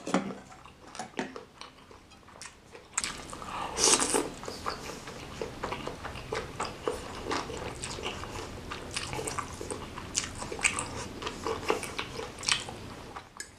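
Close-miked wet chewing and slurping of noodles and meatball soup, with many small mouth clicks and smacks.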